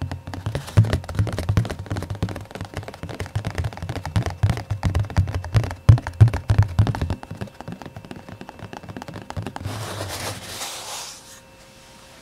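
Fast, soft ASMR finger tapping: a rapid, irregular stream of taps with low thuds that stops about seven seconds in. A short rubbing, brushing sound follows about ten seconds in.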